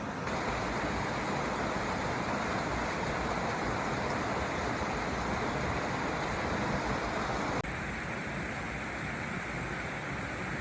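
Stream water running steadily, an even rushing sound. It steps abruptly to a slightly lower level about seven seconds in.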